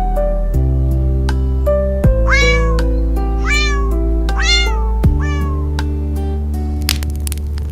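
A cat meowing three times, about a second apart, over background music with sustained notes and a deep bass.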